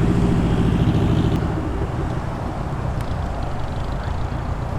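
Holden Commodore's engine running as the car rolls past, its note fading over the first second and a half, then wind buffeting the microphone and distant traffic.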